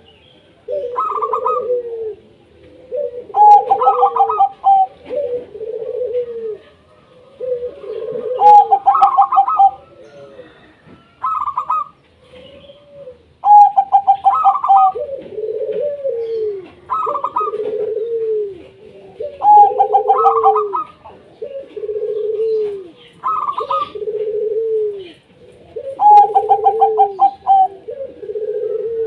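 Zebra doves (local perkutut) cooing in repeated phrases every two to three seconds. Each phrase is a quick stuttering run of higher notes over lower coos that rise and fall.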